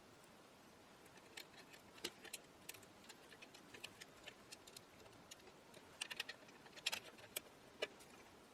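Faint irregular small clicks and taps of small metal parts and tools being handled on a workbench, busiest and loudest in the second half.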